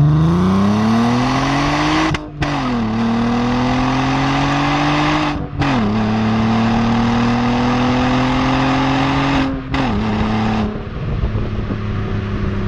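VW Golf MK4 2.8 V6 engine through a stainless sport rear silencer, accelerating hard: the exhaust note climbs in pitch, is cut by three quick upshifts, each dropping the revs before they climb again, and about ten seconds in the throttle is lifted and the note falls to a lower, rougher burble.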